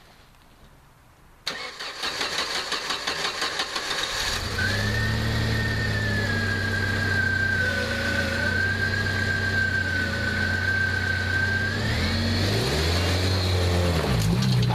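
Jeep Wrangler's engine cranked by the starter for about three seconds until it catches, then idling with a steady high-pitched whine over it. Near the end the engine revs up and down as the Jeep pulls away up the bank.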